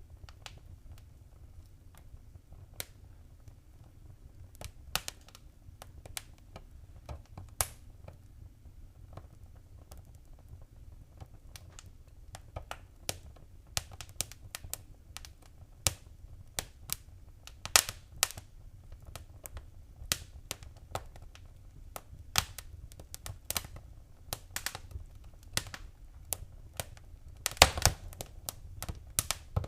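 Wood fire crackling in a fireplace: irregular sharp pops and snaps over a low, steady rumble. The pops come more often in the second half, with a brief burst of louder ones near the end.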